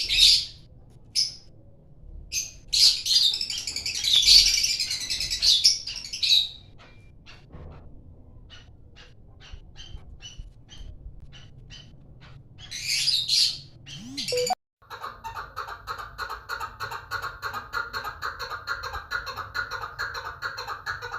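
Pet lovebirds chirping and shrieking in loud, high-pitched bursts. After a sudden break about two-thirds of the way through, there is a steady run of rapid repeated chattering notes, several a second.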